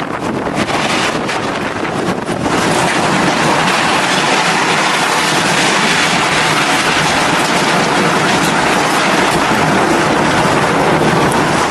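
Rushing floodwater: a steady, loud rushing noise that steps up in level about two and a half seconds in.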